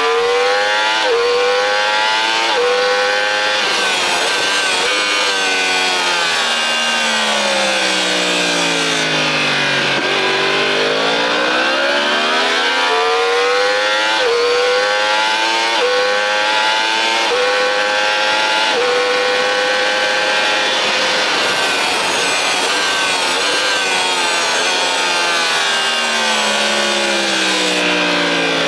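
Sport motorcycle engine at full throttle on a race track, revs climbing and dropping sharply at each quick upshift about every one and a half seconds, then falling away over several seconds under braking and downshifts before climbing again. A steady wind rush runs underneath.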